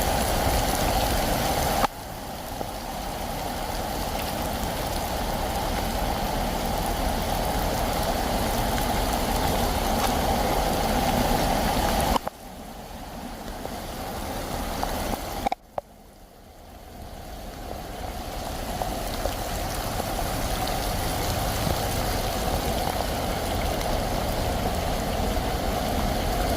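Steady rushing noise of rainwater running and vehicles passing on a street flooded after a downpour. It drops sharply three times, after short clicks, and swells back each time.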